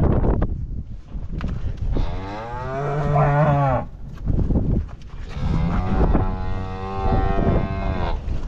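Cattle mooing: two long, drawn-out moos, the first about two seconds in and the second, longer one about five and a half seconds in.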